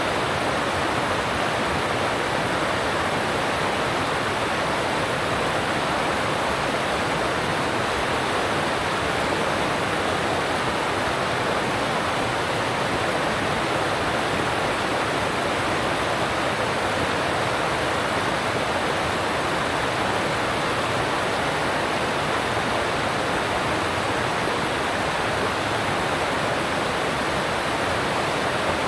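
Alpine stream water rushing steadily over rocks, an even, unbroken rush.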